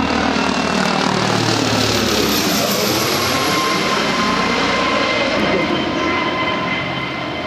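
MD 902 Explorer medical helicopter, a twin-turbine NOTAR design without a tail rotor, flying past low overhead. Its rotor hum drops in pitch about two seconds in as it goes by, over a steady turbine whine.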